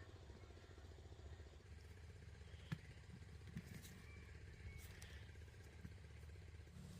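Near silence: a faint steady low rumble with one sharp click a little under three seconds in.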